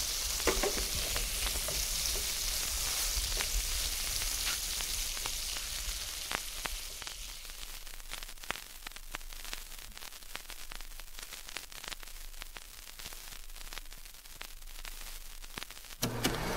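Bacon sizzling and crackling in a frying pan, with sharp pops over a steady hiss, slowly fading out. Near the end a steady motor hum starts abruptly.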